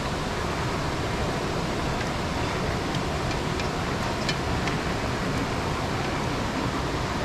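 Steady, even rushing noise, the kind made by flowing water or wind, with a few faint short high sounds around the middle.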